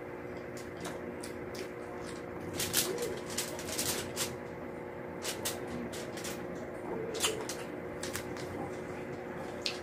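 Close-up eating sounds of a person chewing and smacking on rice and fried milkfish eaten by hand, heard as scattered short wet clicks, busiest a few seconds in and again about two-thirds through. A steady hum of several tones runs underneath.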